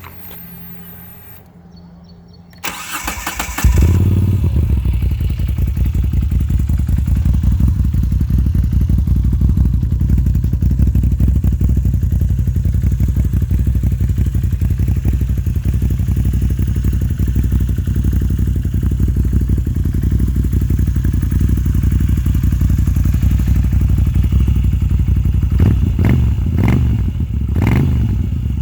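Moto Guzzi V9 Bobber's 853 cc air-cooled transverse V-twin cranking on the starter, catching about three and a half seconds in, then idling loudly through an Agostini exhaust with the dB killers removed. Two short throttle blips come near the end.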